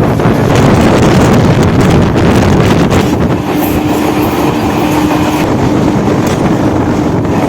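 Electric suburban local train (EMU) running at speed, a loud steady rumble and rattle heard on board, with wind buffeting the microphone. A faint steady hum joins in about halfway through.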